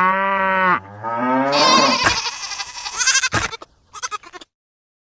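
A sheep-like bleat with a wavering pitch, followed by a second, higher and rougher call, then a few short clicks before the sound cuts out near the end.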